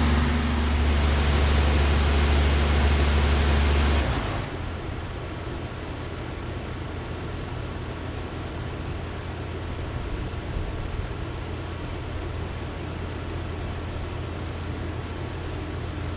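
Heat pump outdoor unit with a Copeland scroll compressor shutting down. The loud compressor hum and fan air noise cut off suddenly about four seconds in, leaving a quieter steady hum.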